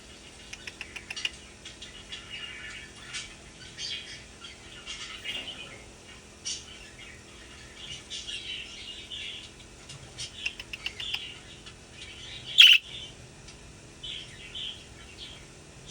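Young budgerigar chirping and chattering in short, high calls with small clicks in between. A single sharp click about three-quarters of the way through is the loudest sound.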